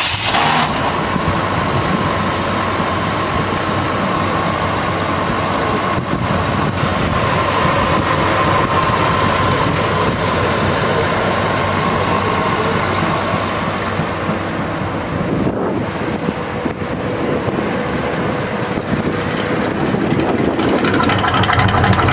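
A 1983 Chevy K10 pickup's engine catches right at the start and then idles steadily with no stumble. It gets a little louder near the end.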